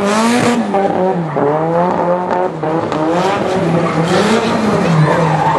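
A high-powered car's engine revving up and down over and over, about once a second, while its rear tyres spin and squeal as it does donuts in a burnout.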